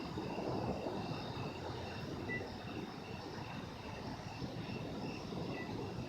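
Steady low rumble of distant thunder from a severe storm, with insects chirping in an even pulse about twice a second above it.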